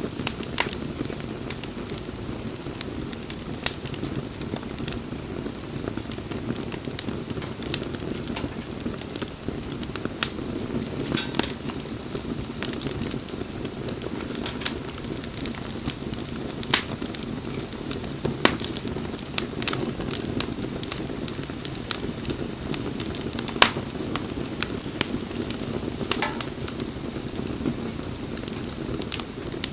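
Campfire burning: a steady low rush of flames with irregular sharp crackles and pops throughout, a few of them much louder than the rest.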